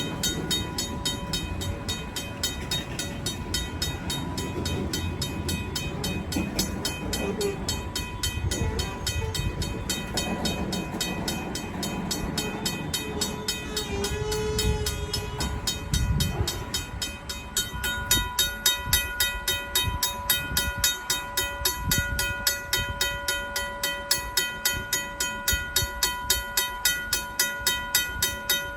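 Mechanical crossing bell ringing in fast, even strokes over the rumble of freight cars rolling across the grade crossing. The rumble drops away about two-thirds of the way through, leaving the bell ringing clearly.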